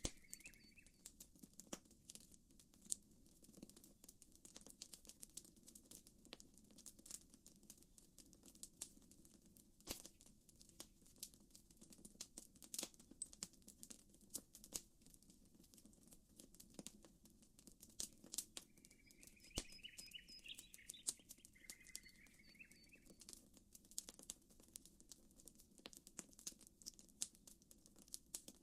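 Faint campfire crackling: irregular sharp pops and snaps throughout over a soft low hiss, with a bird chirping briefly about two-thirds of the way through.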